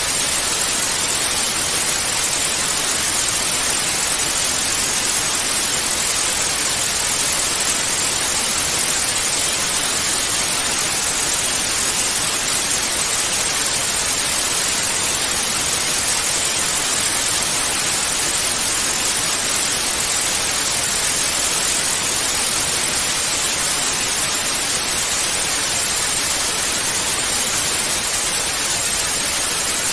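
Television static: a steady, even white-noise hiss, strongest in the high range, with no change in pitch or level.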